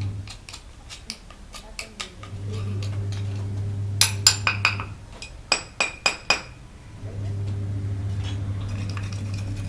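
Metal gas-stove burner parts clinking and tapping against each other: scattered light clicks, then two quick runs of about five sharp, ringing clinks around the middle. A steady low hum stops near the start and comes back twice.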